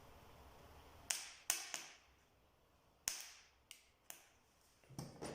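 About six sharp clicks and taps of small hard parts being handled, spread through, then a duller knock near the end, from working on a small electric motor just crimped back together.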